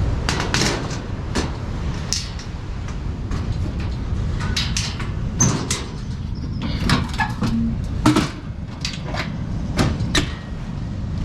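Irregular clunks and knocks of camping gear being handled and packed away, over a steady low rumble.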